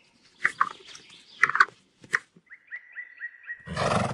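Capybara vocalising: a few short squeaky calls, then a quick run of rising chirps or whistles, about five a second. A loud breathy burst follows near the end.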